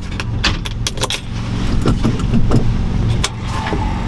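Vehicle engine idling steadily, with scattered metallic clicks and rattles on top, like keys and fittings being handled.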